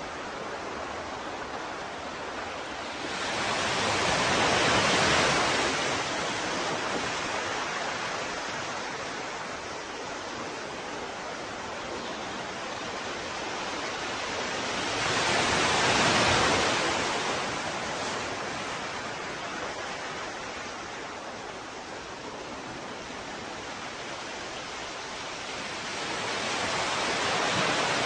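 Ocean waves breaking and washing ashore in a steady hiss, swelling louder about every eleven seconds: three surges, near the start, mid-way and at the end.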